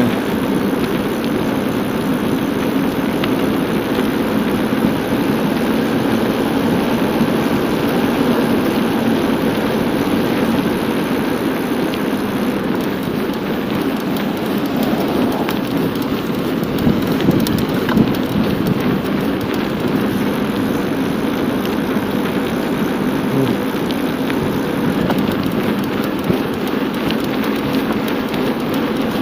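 Steady rushing wind noise on the microphone of a camera carried on a moving bicycle, mixed with the rolling of the tyres.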